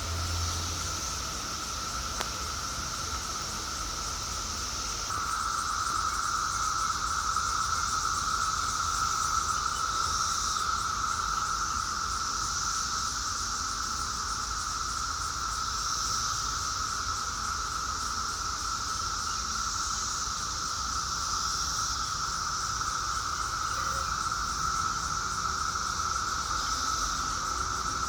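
Insects trilling steadily outdoors, two shrill pitches sounding at once; the lower one grows louder about five seconds in.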